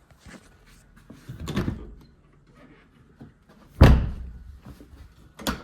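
A door being shut, with a heavy thud about four seconds in and a sharp knock near the end, after a softer bump and small knocks earlier.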